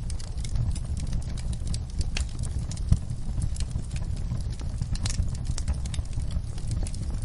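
Wood fire crackling: scattered sharp pops and snaps over a steady low rumble of the flames, with one louder pop about three seconds in.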